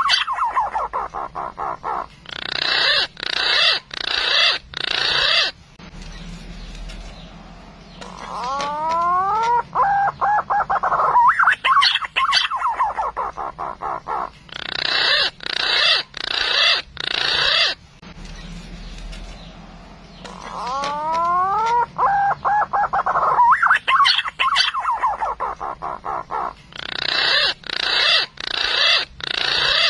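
Green pigeon (punai) song played as a trapping lure: each phrase opens with a few rising whistled glides and runs into a long string of quick notes. The identical phrase repeats about every 12 seconds, as a looped recording.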